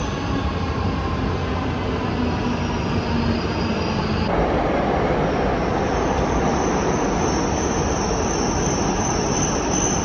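Train running on rails: a steady, loud rumble of wheels and track noise with a thin high whine over it, the sound changing abruptly about four seconds in.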